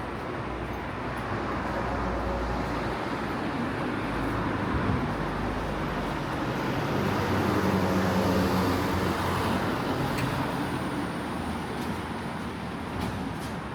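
Street traffic noise, with a motor vehicle passing close by that grows louder to a peak about eight seconds in and then fades away.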